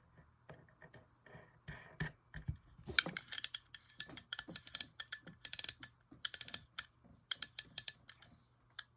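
Small metal parts of a Shakespeare Service fishing reel clicking and tapping as the star drag adjuster is fitted onto the handle shaft: an irregular run of sharp little clicks, some in quick clusters.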